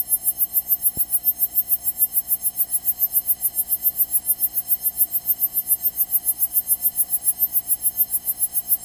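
Steady buzzing drone in a Cessna 172's cockpit, heard through the intercom, pulsing evenly about eight times a second.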